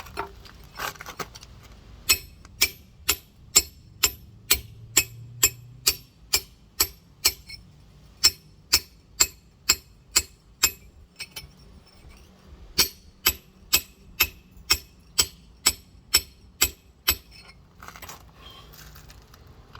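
Rock hammer tapping on a giant geode, sharp ringing strikes about two a second in three steady runs with short pauses between, shearing a crack through the shell to cleave it open.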